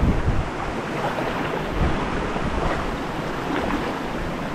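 River water rushing over rocks, a steady noise, with wind buffeting the microphone in low gusts near the start and about two seconds in.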